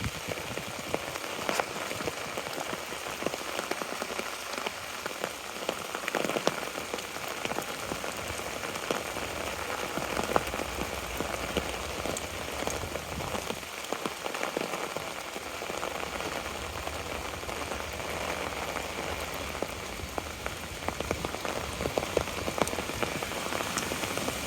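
Steady rain falling, with many scattered individual drops ticking close by.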